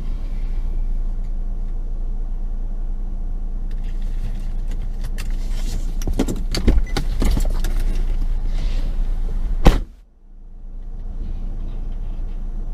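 Steady low rumble of a car heard from inside the cabin. About halfway through comes a run of knocks and clicks, ending in one sharp loud click, and then the sound cuts out briefly and fades back in.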